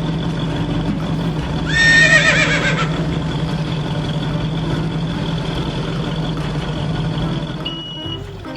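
A horse whinnies once, a short shaking call that falls in pitch, about two seconds in, over a steady engine drone. Near the end, music with repeated high beeps begins.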